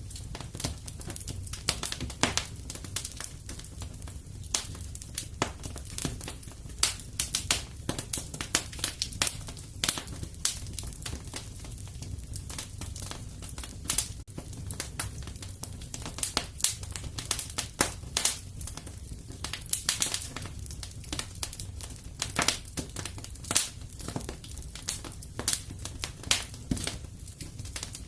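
Wood fire crackling and popping in a fireplace: frequent irregular sharp snaps over a steady low rumble of the flames.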